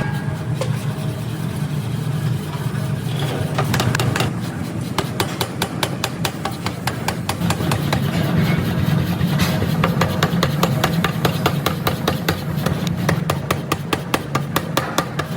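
Factory machinery running with a steady low hum and a fast, regular ticking, several ticks a second, that grows more prominent after about four seconds.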